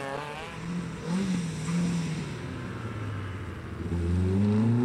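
Opel Manta 400 rally car's four-cylinder engine revving hard as it accelerates. The pitch holds steadier in the middle, then climbs to its loudest near the end before dropping away.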